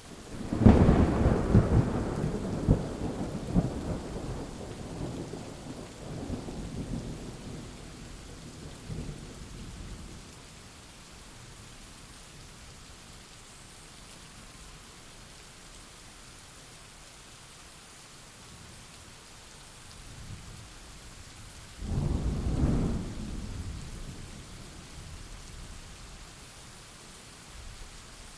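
Thunderstorm: steady rain with two claps of thunder, a long rolling one starting about a second in and dying away over several seconds, and a shorter one about two thirds of the way through.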